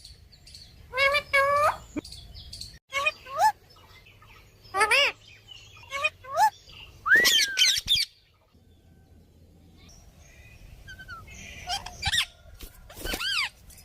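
Pet parrot calling and chattering in a run of short, wavering, high-pitched squawks, with a pause of about two seconds midway before the calls start again.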